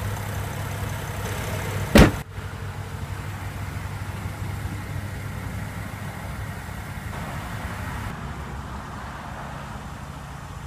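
2014 BMW X6 xDrive35i's 3-litre twin-turbocharged inline-six idling with a steady low hum, and one loud thump about two seconds in.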